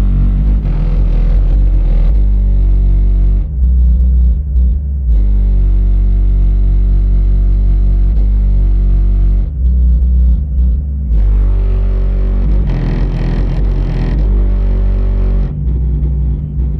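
Car stereo playing bass-heavy music through two Kicker L7 12-inch subwoofers in a custom ported box, loud, with the deep bass dominating and changing note every second or two.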